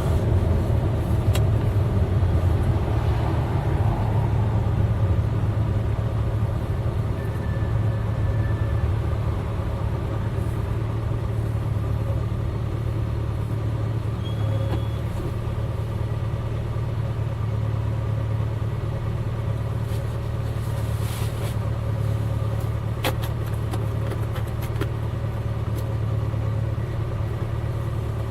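Eight-cylinder car engine running in fifth gear: a steady low drone at an even pitch, easing a little over the first few seconds and then holding.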